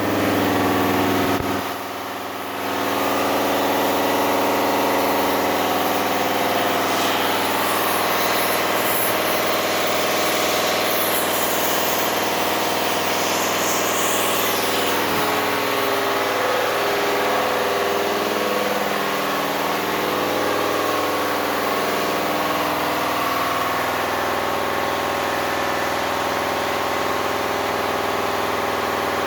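Engine idling steadily, dipping briefly in level about two seconds in.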